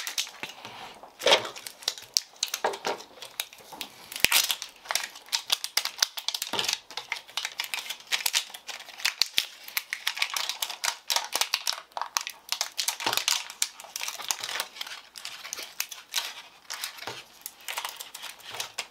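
Plastic packaging crinkling and tearing as a toy blind-ball package is opened by hand, in irregular crackles and rustles.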